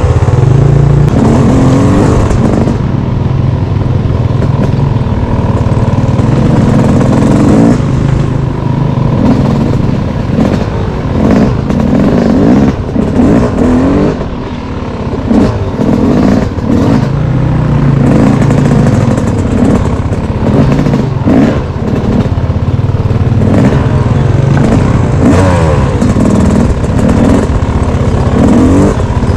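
Single-cylinder off-road engine running under load, revving up and down again and again while riding a trail, with scattered clattering knocks from the rough ground.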